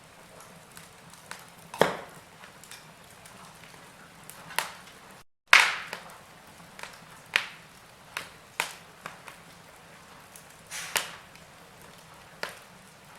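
Wood fire burning in a fireplace, crackling with sharp pops every second or two and lighter ticks between, over a soft steady hiss. About five seconds in, the sound cuts out for a moment and returns with one of the loudest pops.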